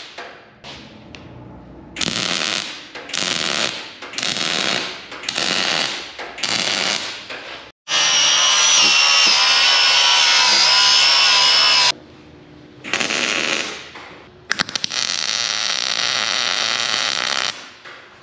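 Metal-fabrication power tools at work: a string of short bursts under a second each, then a steady four-second run with a wavering high whine, then more bursts and a longer run.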